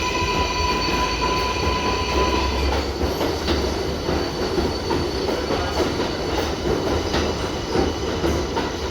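R188 subway train running on the rails, with a steady low rumble and wheel clicks over the rail. A high electric whine from the traction motors cuts off about three seconds in, as power is shut off to coast or brake.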